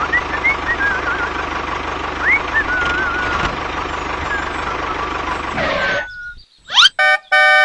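A steady tractor-like engine sound runs with high chirping whistles over it, then stops about six seconds in. A quick rising sweep follows, and a horn-like toot starts near the end.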